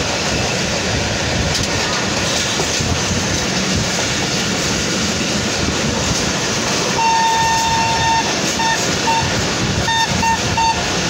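Passenger train running at speed, heard from an open carriage window as a steady rumble with wind. About seven seconds in, the locomotive horn sounds one long blast, then a string of short toots.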